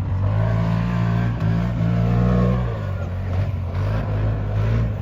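CFMoto 1000 side-by-side's engine running hard under throttle along the track. The pitch rises, then eases off about two and a half seconds in.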